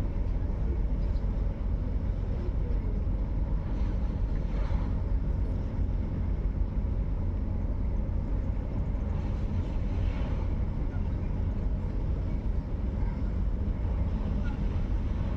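Steady low rumble under a constant hiss, swelling briefly twice.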